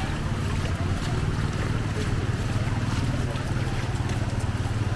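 A small engine running steadily close by, a low rapid throb, over a steady wash of noise from the flood water.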